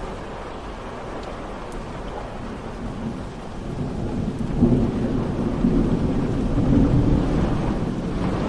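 Steady rainfall with a low rolling rumble of thunder that builds about halfway through, swells for a few seconds and eases off near the end.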